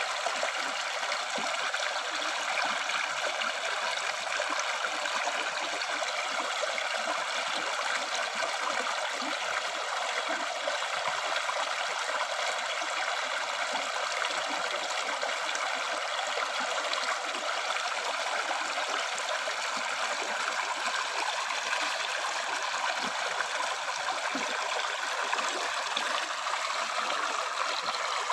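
River or stream water flowing and trickling over rocks, a steady rush with no change.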